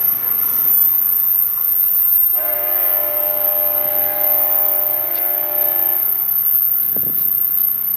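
Amtrak locomotive air horn sounding one long chord of several notes for about three and a half seconds, starting a couple of seconds in, over steady train noise.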